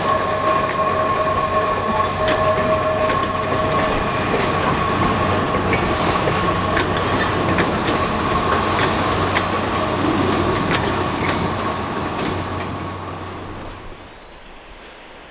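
A geared steam locomotive and its train rolling past with a steady high wheel squeal and scattered clanks, then fading away about 13 to 14 seconds in.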